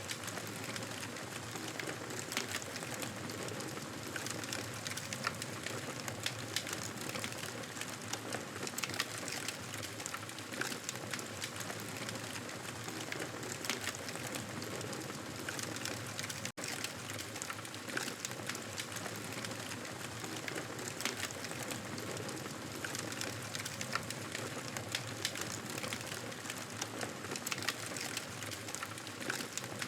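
Wood fire crackling in a fireplace: a soft steady hiss with irregular sharp pops and snaps. The sound drops out for an instant a little past halfway.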